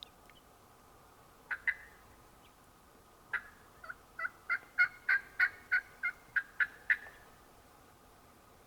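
A series of wild turkey yelps: two short notes, then a run of about a dozen evenly spaced yelps, roughly three a second, getting louder.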